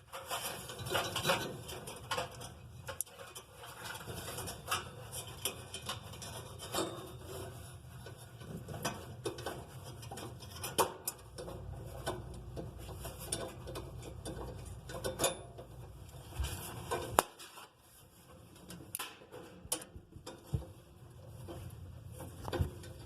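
Irregular metallic clinks, knocks and scrapes of sheet-metal oven parts and hand tools being handled as a part of the gas oven is fitted back into place.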